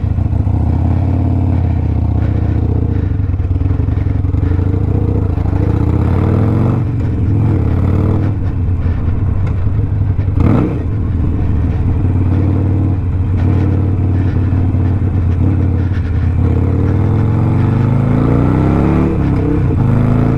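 Harley-Davidson Sportster Iron 1200's air-cooled V-twin, with a Two Brothers 2-into-1 exhaust, pulling away and accelerating, its pitch rising and dropping several times as it works through the gears. There is a single sharp crack about ten seconds in.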